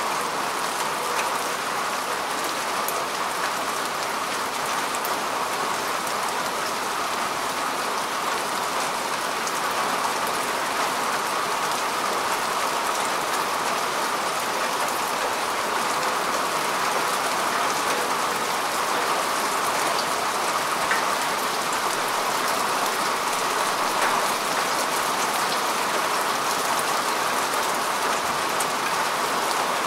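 Steady rain falling on grass and earth: an even hiss of drops with scattered individual drop ticks.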